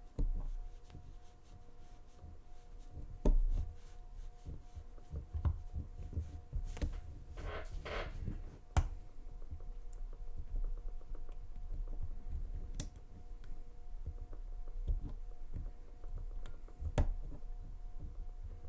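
Lock pick and tension wrench working the pins of a Lane Security padlock: scattered small metallic clicks and scrapes with low handling bumps, and a brief rattling scrape about eight seconds in.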